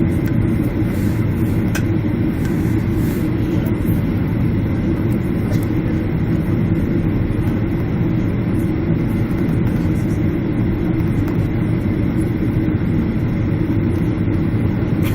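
Steady rumble of a Boeing 767's jet engines and airflow heard from inside the passenger cabin, with no rise or fall in level.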